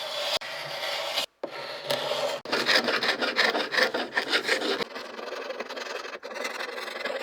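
Rubbing, rasping strokes of an abrasive worked by hand over wood, coming in quick back-and-forth passes. The sound breaks off abruptly a few times.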